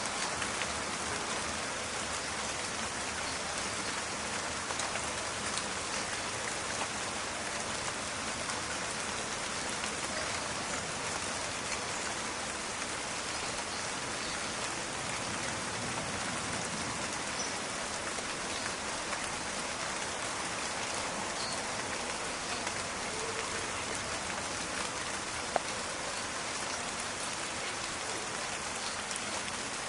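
Steady rain falling in a forest, a dense even patter of drops on leaves and ground with fine crackling detail. One sharp drip-like tick stands out about 25 s in.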